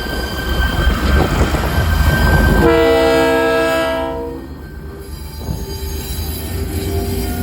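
TasRail diesel locomotives hauling an empty ore train, with a heavy rumble of wheels on rail and one horn blast of about a second and a half beginning nearly three seconds in.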